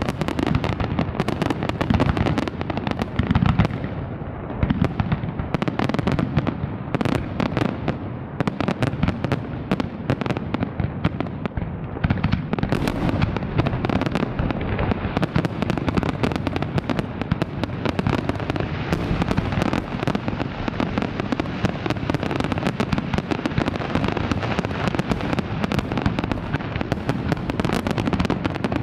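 Large fireworks display: a dense, unbroken barrage of bangs and crackles, many sharp reports each second over a heavy low rumble.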